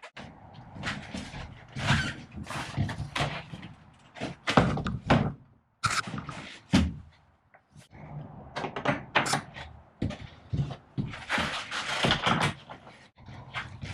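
Irregular thunks and knocks, like doors and hard objects being handled and set down in a small enclosed space, coming every second or so.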